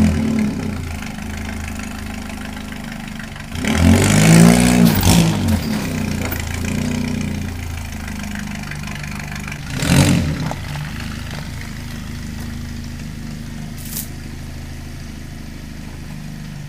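Vehicle engine idling steadily and being revved three times: a short blip at the start, a longer rev that rises and falls a few seconds in, and another short blip about ten seconds in. A single sharp click or knock comes near the end.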